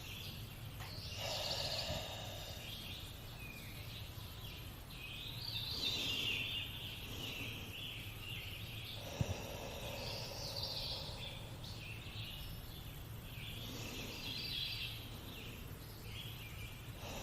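Slow, deep audible breaths, the exhales made with the throat slightly constricted (ujjayi breathing). They come as soft, breathy swells about every four seconds over a faint steady hum.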